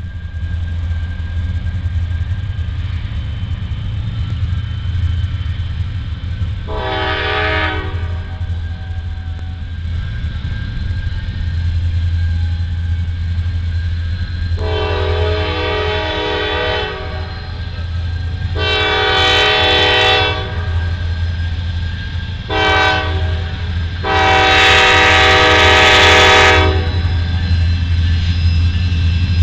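Norfolk Southern diesel freight locomotive sounding its multi-chime air horn over the steady low rumble of its engine: one short blast about seven seconds in, then the long, long, short, long grade-crossing signal, the last blast the longest and loudest.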